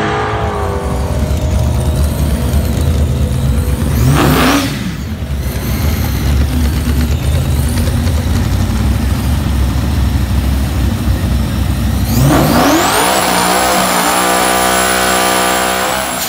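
Drag-racing car engines at full throttle. After a rev sweep about four seconds in, a Buick Regal G-body revs up about twelve seconds in and holds high revs in a smoky burnout.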